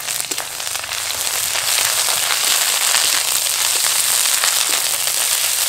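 Ginger-garlic paste frying in hot mustard oil with browned onions in a kadai, a dense sizzling crackle. It starts suddenly, grows louder over the first couple of seconds, then holds steady.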